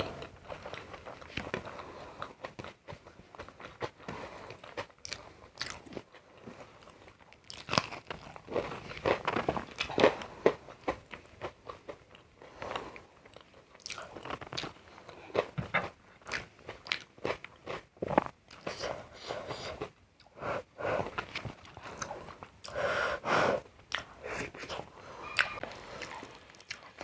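Close-miked eating: irregular crunchy bites and chewing of a meal of rice, kidney bean curry, salad, chilli and papad.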